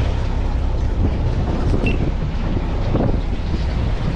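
Wind buffeting the microphone on a boat at sea, a dense, unsteady low rumble with the sea and boat beneath it.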